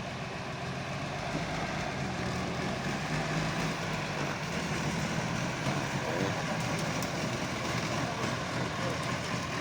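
Old army 4x4 truck engine running steadily, growing a little louder over the first few seconds.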